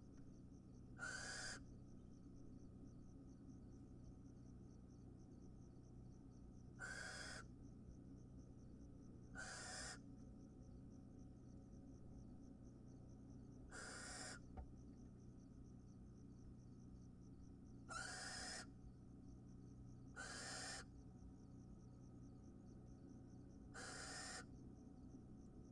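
Barn owls giving harsh, hissing screech calls in the nest box: seven calls of about half a second each, a few seconds apart. A faint, even, high pulsing runs underneath.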